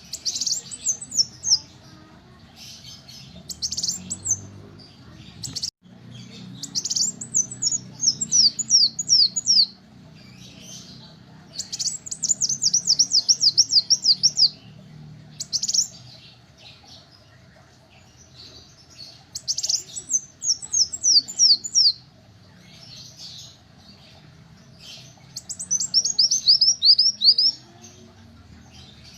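Kolibri wulung (a sunbird) singing: repeated quick series of high, downward-slurred notes, each series lasting one to two seconds, with short pauses between.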